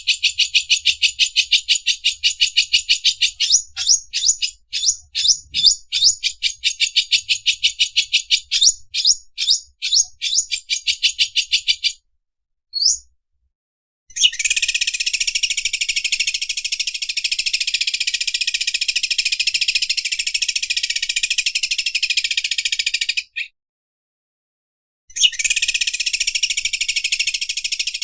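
Greater green leafbird (cucak ijo) singing its 'mesin obras' song, a high, machine-like chatter like an overlock sewing machine. It opens as a fast run of repeated notes that slows into separate strokes, stops briefly, then becomes a long dense trill that breaks off and starts again near the end.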